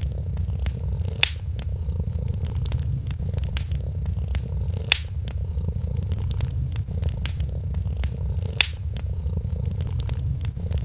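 A cat purring in a steady low rumble over a crackling wood fire, with many small crackles and three sharper pops spread evenly through the stretch.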